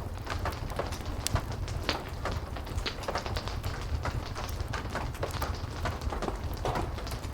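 Wood fire crackling with frequent sharp pops over the steady hiss and low rumble of heavy rain.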